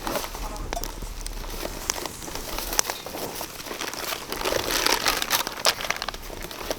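Plastic packaging crinkling as it is handled, in irregular bursts with scattered sharp clicks.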